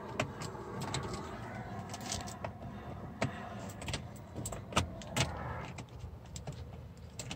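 Kia Pride petrol engine idling steadily, with scattered sharp clicks and jingles like keys being handled.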